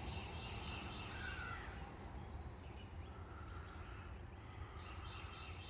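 Faint outdoor ambience: scattered bird chirps and a steady high insect trill over a low rumble.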